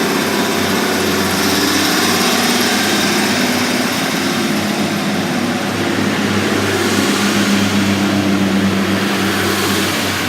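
Diesel engine of a Class 150 Sprinter diesel multiple unit running under way, a steady drone heard from on board the train.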